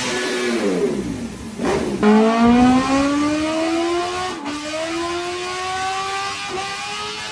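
Superbike engine at high revs. Its pitch falls over the first two seconds with a rush of noise as it passes, then the engine pulls hard with a steadily rising pitch, broken by two brief dips that sound like upshifts.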